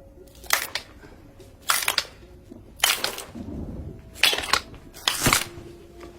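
Ribs breaking: five loud crunching cracks of bone, each lasting a fraction of a second, about a second apart.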